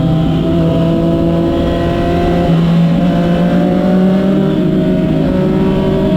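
Motorcycle engine running steadily under way, its pitch climbing gradually through the second half, with wind rumble on the microphone underneath.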